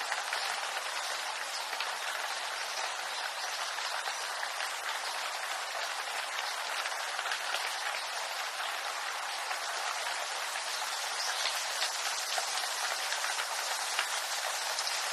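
Steady rain falling on bamboo leaves: a continuous hiss thick with fine, rapid patter of drops.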